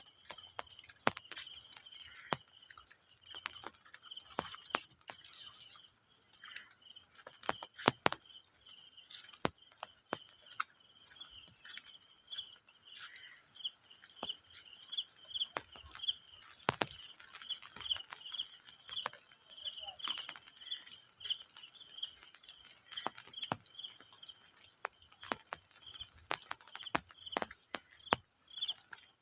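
Insects chirping steadily in a fast, even pulse, high-pitched, with scattered sharp clicks and taps over it.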